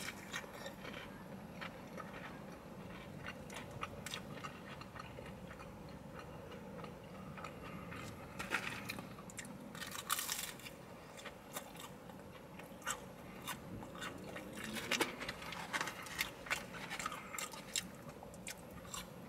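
Close-up chewing and biting of crispy battered fried fish, with short crunches and mouth clicks that come thickest a little before the middle and again in the last few seconds, over a low steady background hum.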